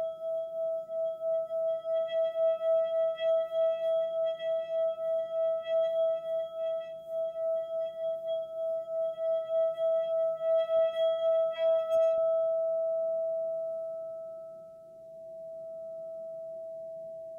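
A sustained ringing tone, like a singing bowl, pulsing about three times a second. Its upper overtones drop away about twelve seconds in, leaving a plain tone that swells once and fades.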